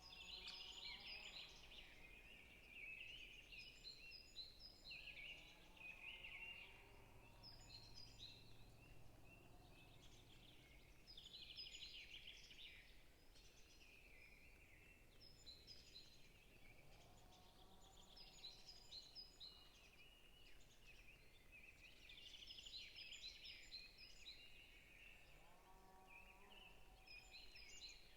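Faint forest birdsong: several small birds sing high, rapid, warbled phrases every few seconds. A lower-pitched call comes in twice, about two-thirds of the way through and again near the end.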